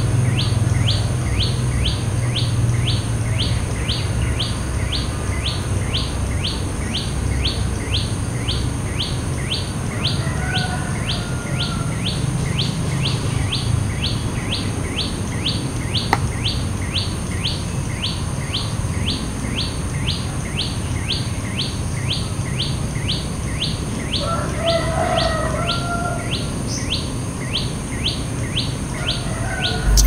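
Bird sounds: a steady run of short, high, falling chirps about two a second, with a few lower, separate bird calls about ten seconds in and again near the end, over a low rumble.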